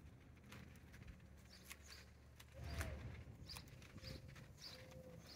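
Faint outdoor background: scattered small bird chirps, with a brief low rumble a little past halfway.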